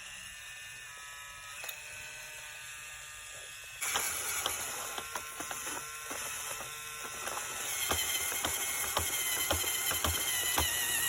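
Toy battery-powered drill starting about four seconds in and running with a whirring motor, a steady whine and regular clicking, as it drives a plastic screw.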